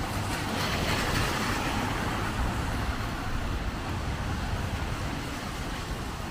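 Street traffic in heavy rain: a vehicle passes on the wet road with tyre hiss swelling about a second in and fading, over steady rain and a low wind rumble.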